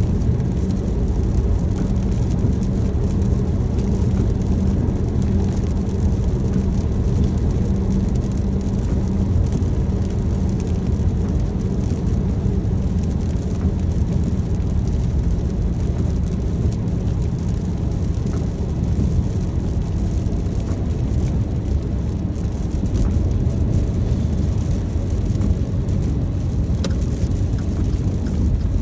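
Car driving in the rain, heard from inside the cabin: a steady low road and engine rumble with a lighter hiss of rain and wet tyres above it.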